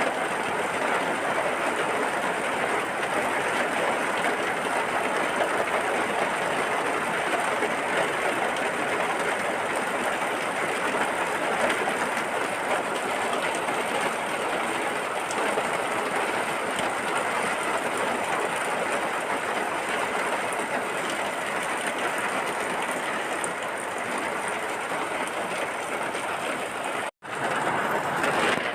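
Steady heavy rain, an even dense hiss with no break in its level. Near the end it cuts out to silence for an instant and then picks up again.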